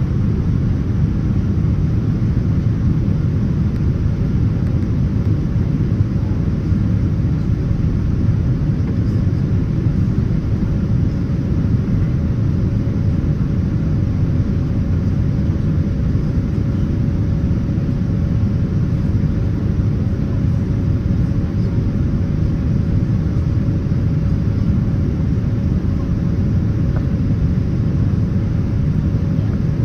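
Steady rumble of engine and airflow noise inside the cabin of a Boeing 787-9 airliner, with a faint steady hum above it.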